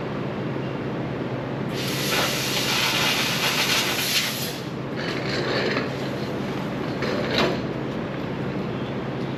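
Handheld laser cutter running as it cuts through sheet-steel body panels. A steady machine hum runs under a louder hiss of about three seconds that starts near two seconds in, and there are a couple of sharp clicks later on.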